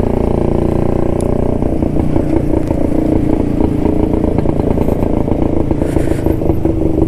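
1972 Jawa motorcycle's two-stroke engine running steadily under way, a rapid even stream of exhaust pulses.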